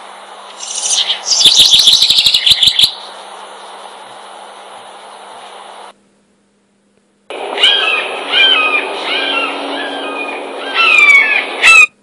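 Two recorded bird calls of unnamed species. The first is a brief, fast chattering trill over steady hiss. After a second or so of dead silence, a second recording of short, repeated chirping notes plays and cuts off suddenly.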